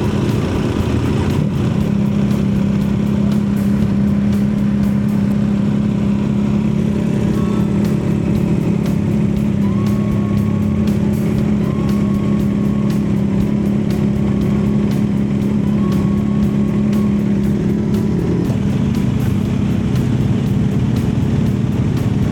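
Honda CB1100 air-cooled inline-four engine running at a steady cruising pitch while the motorcycle is ridden, its note shifting about 18 seconds in.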